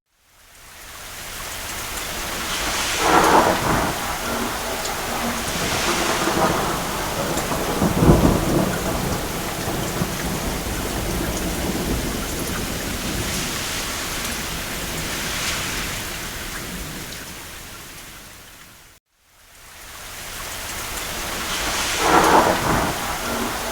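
Steady heavy rain on a roof with thunder rumbling several times. The whole soundscape fades out to a moment of silence about three quarters of the way through, then fades back in.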